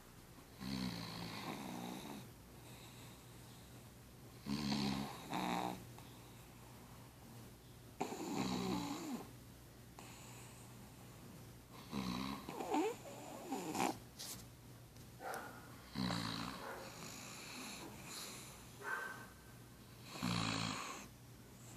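Pug snoring in its sleep: six rough snores, about one every three to four seconds.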